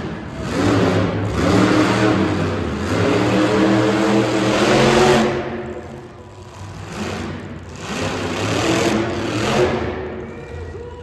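Monster truck engine revving hard in repeated surges: one long burst of about five seconds, then two shorter bursts after a brief drop about halfway through.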